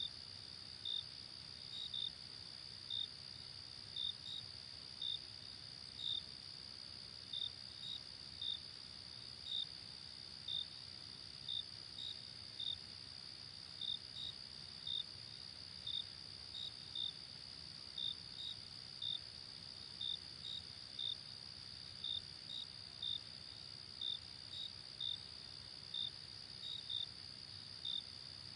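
Night-time crickets chirping: a steady high trill with short, sharp chirps repeating about once a second, some in quick pairs, over a faint low background hum.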